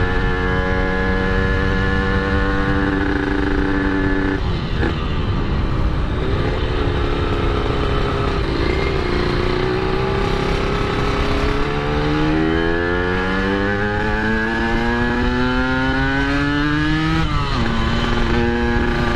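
Yamaha RX-King's 135cc two-stroke single-cylinder engine under way on the road. It holds steady revs, drops about four seconds in, then revs climb steadily through a gear and fall sharply near the end as it shifts up.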